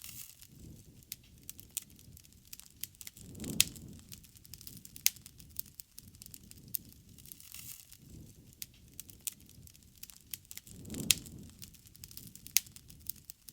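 Wood bonfire burning: a low hiss of flames with irregular sharp crackles and pops from the burning wood, two louder pops standing out about three and a half and eleven seconds in.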